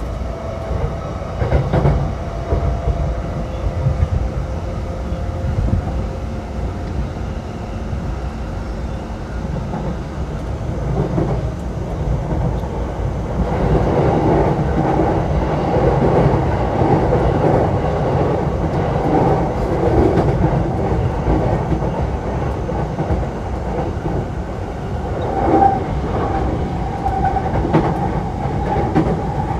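Running sound heard inside a JR East E233-7000 series electric train's motor car (MoHa E233) at speed: steady rumble of the wheels on the rails with rail-joint clacks. About halfway through, the rolling noise grows louder and rougher.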